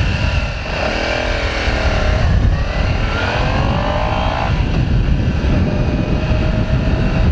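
Motorcycle engine while riding: the pitch drops about a second in, climbs steadily as it accelerates up to about four and a half seconds, then holds steady. Wind rumble on the helmet microphone runs underneath.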